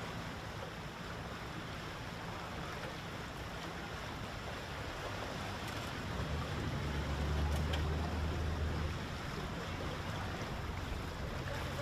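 Water washing and sloshing under a low engine hum that swells about six seconds in and eases again near nine seconds.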